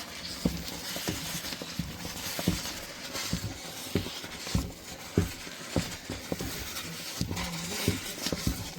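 An irregular series of short, light knocks, roughly two to three a second, over a low steady background hum.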